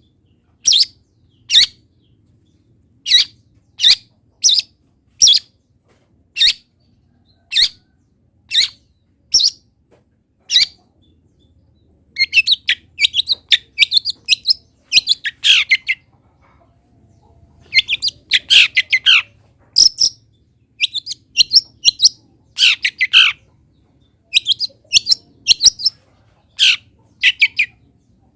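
Long-tailed shrike (cendet) singing. It starts with a string of single sharp, high notes a little under a second apart for about ten seconds. Then come fast, varied chattering phrases packed with imitations of other wild birds, broken by a short pause a little past halfway.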